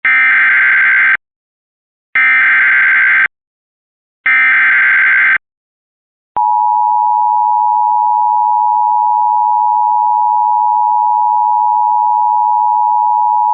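Emergency Alert System tones opening a broadcast severe thunderstorm warning: three short bursts of the SAME digital header, each about a second long with a second's gap between them, then the steady two-tone attention signal (853 and 960 Hz) starting about six seconds in. The tones signal that an emergency warning message is about to be read.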